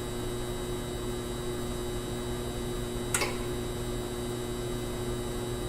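Steady electrical hum with a constant high whine above it, and one short click about three seconds in.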